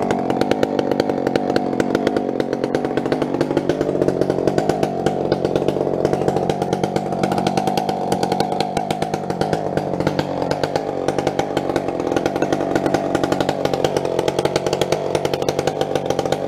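Two-stroke chainsaw running at high revs through a log, its engine pitch wavering slightly up and down as the cut loads it, without a break.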